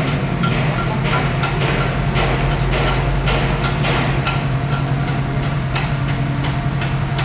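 Small bulldozer's diesel engine running steadily, with a string of sharp metallic clicks and clanks from the working machine, about two or three a second.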